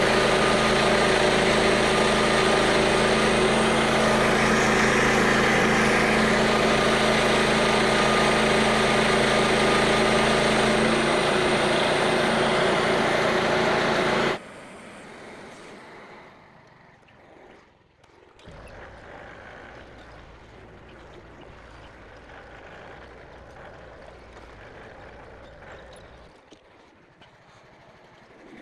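Tractor engine running loud and steady at a constant speed, cutting off abruptly about halfway through; a much quieter steady machine sound follows.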